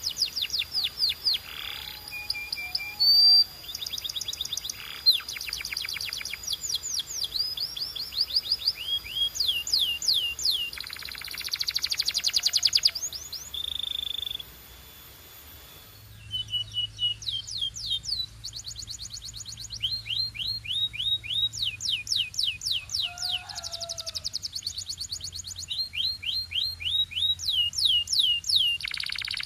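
Domestic canary singing: rolls of rapid, repeated down-slurred whistled notes, with a brief pause about halfway before the song resumes. A faint low hum lies under the second half.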